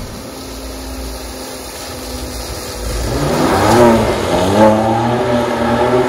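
BMW M2 Competition's twin-turbo straight-six running low and steady, then from about halfway through its note climbs and falls in a series of revs, getting louder.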